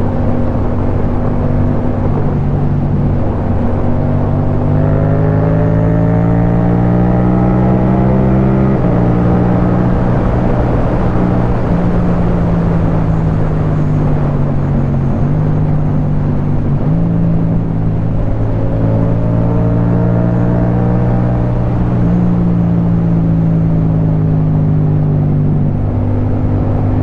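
Yamaha MT-07's parallel-twin engine through an Akrapovic titanium exhaust, running under way and rising in pitch as it pulls through the revs, with a sudden drop in pitch about nine seconds in at a gear change. It changes pitch again around fifteen to seventeen seconds in, climbs again and eases off near the end, over a steady hiss.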